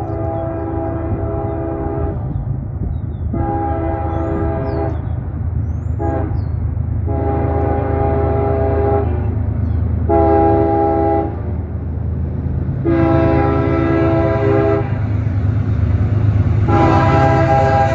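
A train horn with several chime notes sounding over the low rumble of the moving train. It plays long, long, short, long (the grade-crossing signal), then more long blasts.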